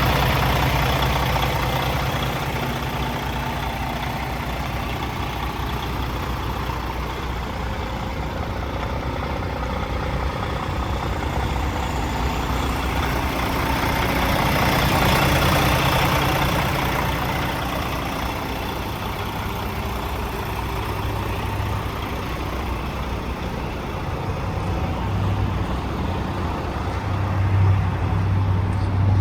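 Diesel engine of a Kenworth T680 semi truck idling steadily with a low hum.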